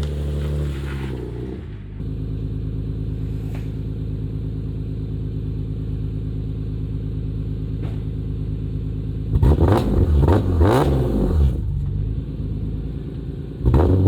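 BMW E46 M3's S54 straight-six with a catless header exhaust on a cold start: the idle drops and settles over the first couple of seconds, then runs steadily. Several quick rev blips come about two-thirds of the way in, and another just before the end.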